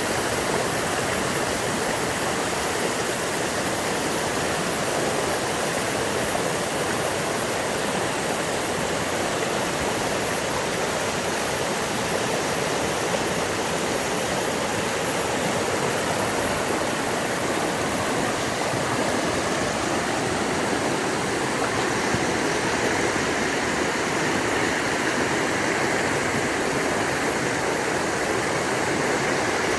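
Loud, steady rushing of a strong, fast-flowing stream just above a waterfall.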